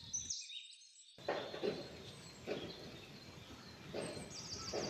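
Quiet outdoor ambience with a small bird chirping in quick high runs, at the start and again near the end. The background drops out for about a second near the start.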